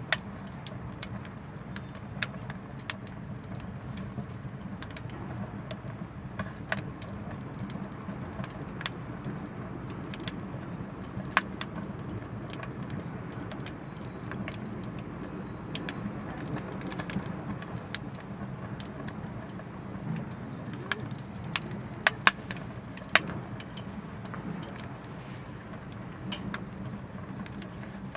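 Anevay Frontier Stove Plus wood-burning stove burning oak firewood: a steady low rumble of the fire with sharp crackles and pops at irregular intervals, a few louder pops about 11 seconds in and again around 22 to 23 seconds in.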